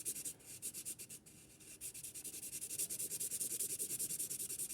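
Marker tip scratching on paper in rapid back-and-forth colouring strokes, lighter at first and steadier and louder from about two seconds in.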